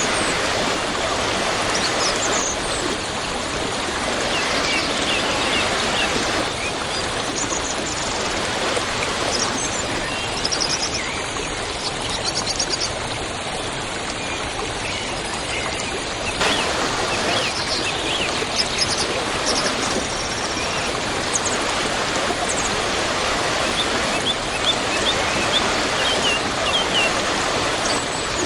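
Waterfall water rushing and splashing in a steady roar, which shifts abruptly in tone a few times, with small birds chirping over it.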